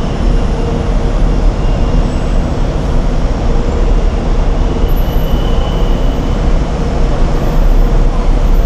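Loud, steady rumble and road noise of a moving vehicle, with a faint steady hum running through it.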